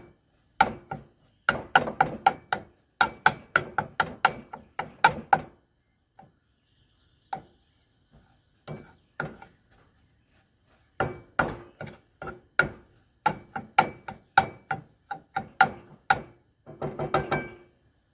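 Metal spatula striking and scraping in a frying pan in quick runs of sharp taps, with a short metallic ring, as eggs are cooked. A quieter spell of a few seconds falls in the middle.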